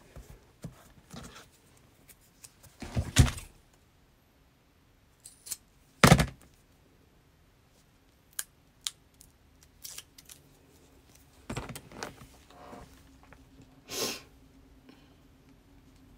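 Sewing materials and tools being handled on a work table: scattered clicks, knocks and rustles, with a few louder thumps spread through. A faint steady hum comes in about two-thirds of the way through.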